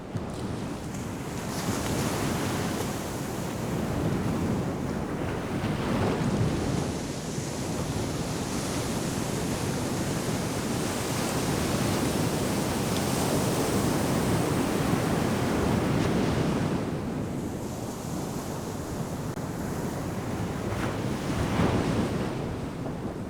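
Ocean surf breaking on a sandy beach: waves crash and wash up the shore in a continuous rolling hiss that swells and eases over several seconds, with a few louder breaks. Wind buffets the microphone now and then.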